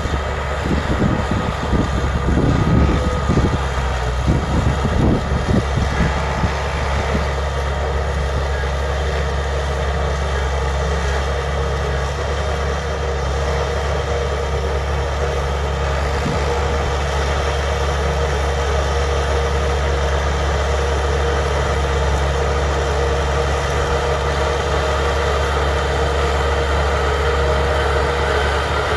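Bulldozer's diesel engine running, with uneven low rumbling for the first several seconds before it settles into a steady, even drone.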